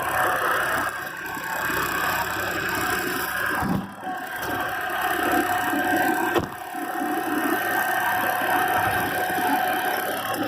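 Kubota diesel tractor running steadily with a steady whine over the engine noise, dropping off briefly twice.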